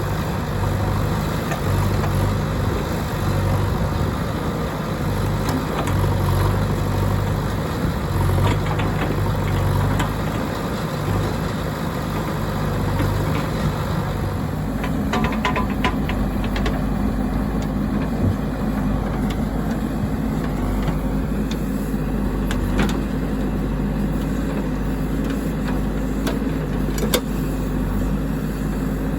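Heavy diesel engine running steadily, its note shifting lower and heavier about halfway through, with a few scattered clicks and knocks.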